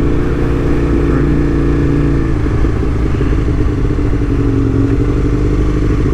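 Aprilia RSV1000's V-twin engine running steadily on the move, its note changing a little over two seconds in.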